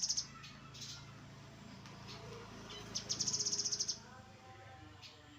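Grey-headed canary-flycatcher singing: a rapid, high trill of about a second, about three seconds in, with short chirps before it, over a low steady hum.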